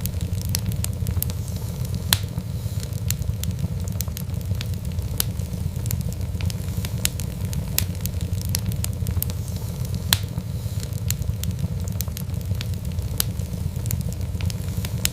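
Wood fire in a fireplace crackling, with irregular sharp pops over a steady low rumble; two louder pops come about two seconds in and about ten seconds in.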